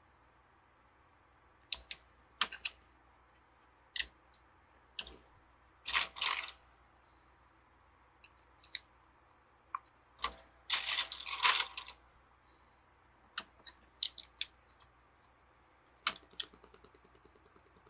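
Small plastic Lego bricks clicking and rattling as they are picked out and snapped together. The sharp clicks are scattered, with a longer rattle of pieces being handled about eleven seconds in.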